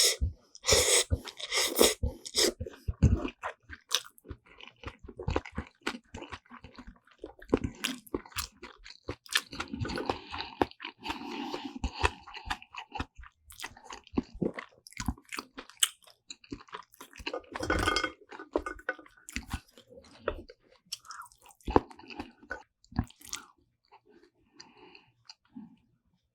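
Close-miked ASMR eating: a person chewing mouthfuls of black bean noodles and side dishes such as kimchi, with wet chewing and crunchy bites. There are heavy bursts of crunching near the start and again about two-thirds of the way through, and the chewing thins out near the end.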